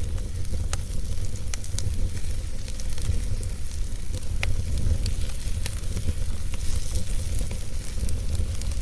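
Wood fire in a fireplace crackling: scattered sharp pops and snaps over a steady low rumble of the burning fire.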